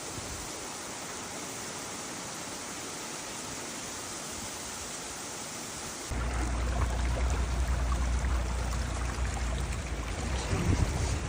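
Heavy rain falling in a steady hiss; about six seconds in it cuts abruptly to a louder stretch of rain with a deep low rumble underneath.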